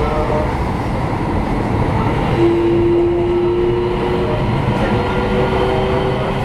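Interior running noise of a Keio 7000 series electric train car under way: a steady rumble of wheels on track, with a faint motor whine that edges slightly up in pitch from about two and a half seconds in.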